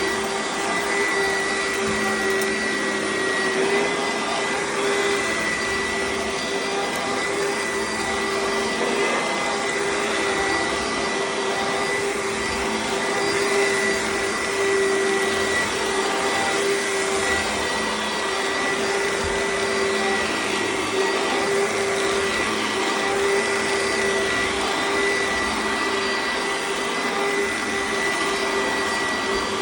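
Oreck XL upright vacuum cleaner running steadily, a constant-pitched motor whine over the rush of air.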